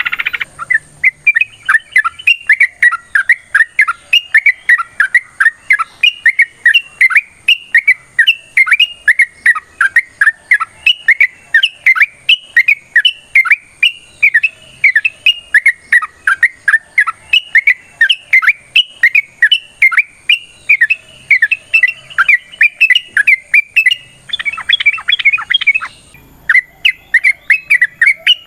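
Yellow-vented bulbuls (trucukan) singing a long, fast chattering run of bubbly chirps, several a second. A harsher, denser stretch comes about 24 seconds in, with a short break just after.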